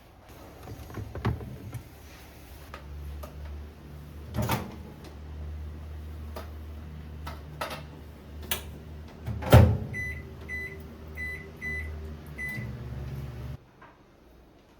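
Microwave oven running with a steady low hum, with a few sharp knocks over it. Five short, evenly spaced beeps sound, and the hum cuts off suddenly soon after.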